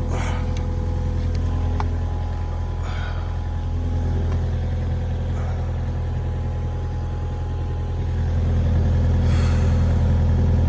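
Mini excavator's engine idling steadily, getting slightly louder near the end.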